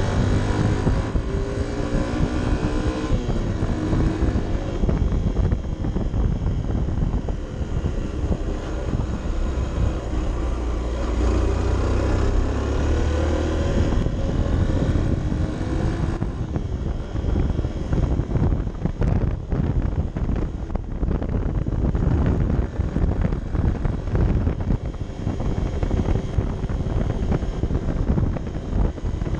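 Honda CB 125 F's single-cylinder four-stroke engine running under load with its pitch rising and falling as the revs change. Wind buffets the camera microphone, more strongly in the second half.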